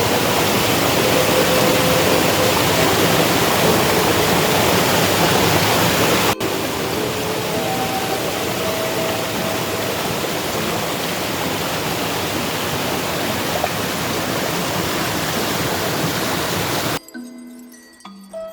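Waterfall: a steady rush of falling water, with a break about six seconds in after which it is a little quieter. Near the end the water stops abruptly and music begins.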